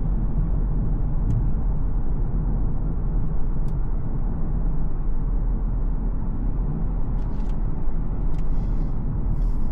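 BMW X4 xDrive20d's 2.0-litre four-cylinder diesel and its tyres making a steady low rumble while driving, with a few faint ticks.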